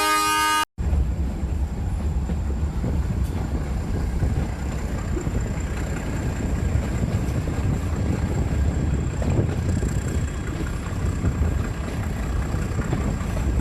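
A train horn sounds steadily for under a second and is cut off abruptly, then a steady low rumble of a vehicle running takes over.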